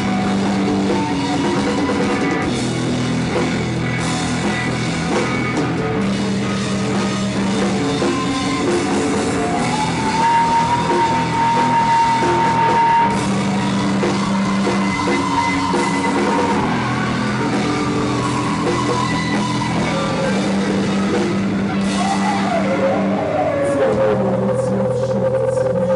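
Live psychedelic rock band playing an instrumental passage: drum kit, bass and guitars, with a sustained lead melody that slides up and down in pitch.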